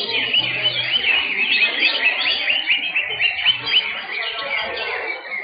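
Many caged songbirds singing at once: a dense chorus of quick, overlapping chirps and whistled trills.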